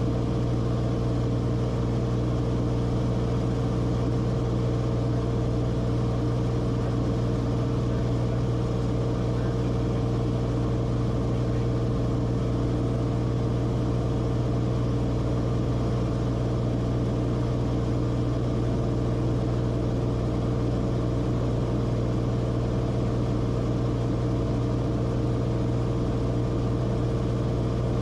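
Cessna Corvalis TTX's turbocharged six-cylinder engine and propeller droning steadily, heard in the cabin: a strong low hum with a fainter higher tone above it, unchanging throughout.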